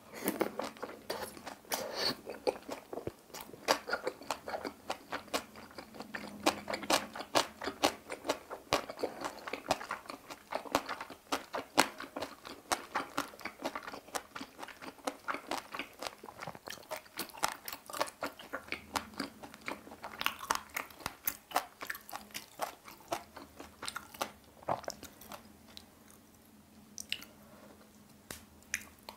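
A person chewing a mouthful of kimjang napa cabbage kimchi with boiled pork (bossam) close to the microphone: a dense run of quick chewing sounds that thins out over the last few seconds.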